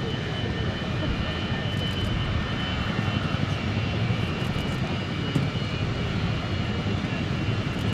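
Kawasaki EC-1's twin turbofan engines (Pratt & Whitney JT8D) running steadily at low power, a deep rumble with a thin steady whine on top.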